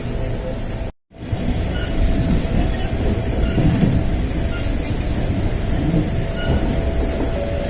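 Electric commuter train running on the line, heard from on board: a steady rumble of wheels on rail and traction motors, with a faint steady whine. The sound drops out completely for a moment about a second in, then resumes.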